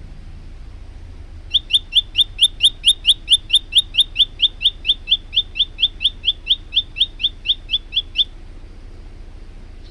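Male olive-backed tailorbird singing a fast run of about thirty loud, sharp, repeated notes, roughly four a second, each dropping slightly in pitch; the run starts about a second and a half in and stops short of the end.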